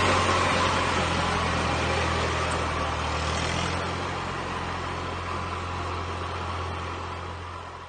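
Fordson Super Dexta tractor's three-cylinder diesel engine running steadily with a low, even drone. It grows gradually quieter and is fading out near the end.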